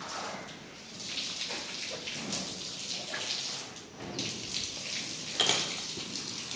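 Liquid splashing and pattering in uneven spurts, with one sharp knock about five and a half seconds in.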